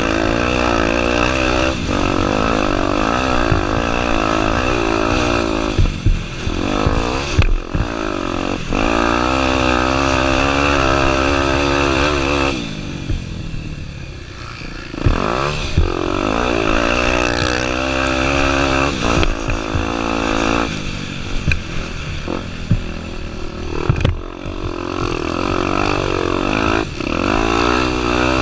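Honda Tornado 250 single-cylinder four-stroke engine being ridden hard, its revs rising and falling again and again through throttle and gear changes. The engine drops back to a lower, quieter note for a couple of seconds about halfway through. Sharp knocks and clatter are heard now and then.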